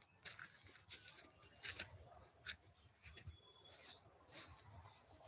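Near silence broken by faint, scattered rustles and scrapes, about one or two a second.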